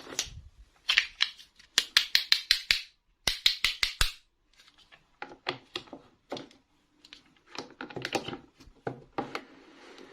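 Plastic toy pieces and packaging being handled: runs of quick sharp clicks and taps, with crinkly rustling, coming in short clusters with brief pauses between them.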